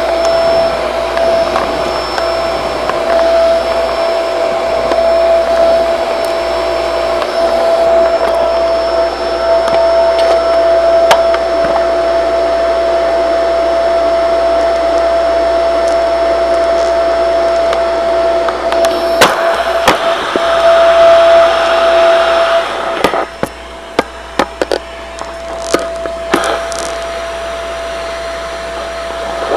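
Shark vacuum cleaner running with a steady motor whine and suction rush. About three quarters of the way through the level drops and sharp clicks and rattles come through.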